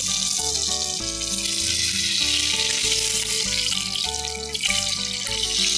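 Duck breast frying in a pan of rendered duck fat, a steady sizzle, under background music with a repeating bass line and held melody notes.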